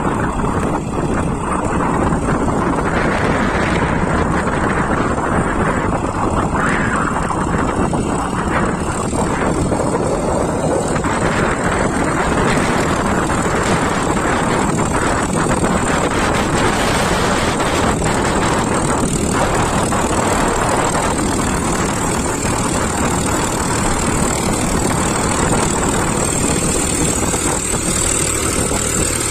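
Powertrac 434 Plus tractor's three-cylinder diesel engine running hard and steady under load, pulling a loaded dumper trolley.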